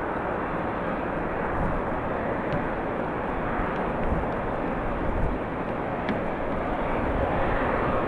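Jet airliner engines running, a steady broad roar across the airfield, with uneven low rumble from strong wind gusts.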